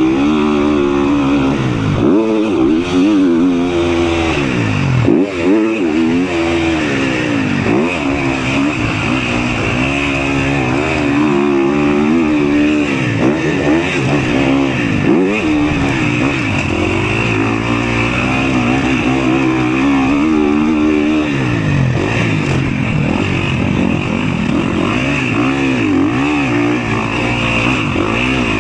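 Motocross bike engine heard from onboard, revving up and falling back again and again every second or two, with a steady hiss underneath.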